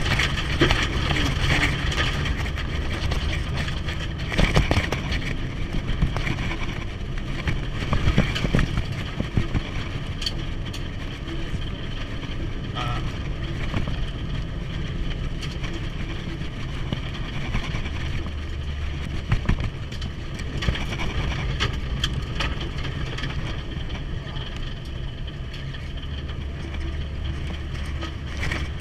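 Car driving steadily: a continuous engine drone with road noise, and a few knocks about four and eight seconds in.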